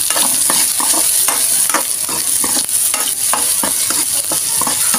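Squash cubes and garlic frying in oil in a metal wok, a steady sizzle under quick, repeated scrapes of a metal spatula stirring them against the pan, about two or three strokes a second.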